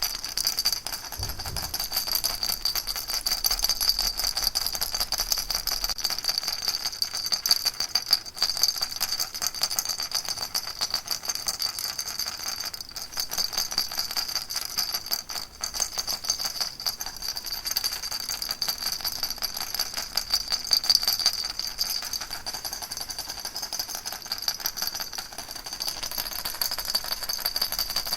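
Baby rattle shaken continuously: a dense, fast, even rattling with a bright tinkle, no pauses.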